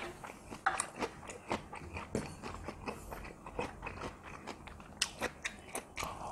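Close-miked chewing and biting, many short mouth clicks in quick succession, with a metal spoon scraping and tapping a stainless steel meal tray as noodles are scooped up.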